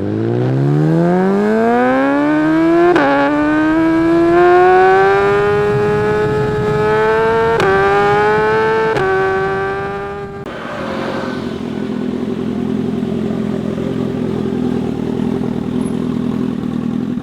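A motorcycle engine revving up as the bike accelerates through the gears, its pitch climbing and then dropping at each upshift, about three, seven and a half and nine seconds in. About ten seconds in it gives way suddenly to a lower, steady engine note.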